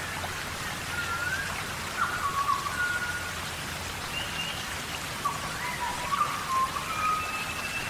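Steady tropical rainforest rain falling on foliage, with short whistled calls, some gliding in pitch, scattered across it.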